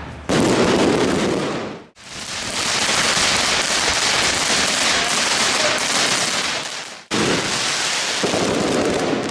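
Fireworks crackling and hissing in a dense, continuous stream, like heavy rain. The sound breaks off abruptly about two seconds in and again about seven seconds in, where separate fireworks clips are cut together.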